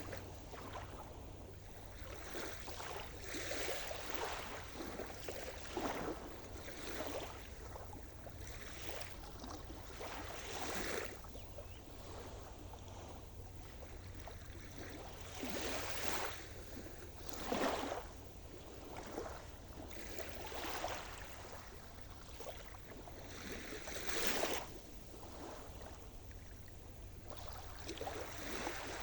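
Sea surf: waves breaking and washing in one after another, a rush of hiss swelling every few seconds over a steady low rumble.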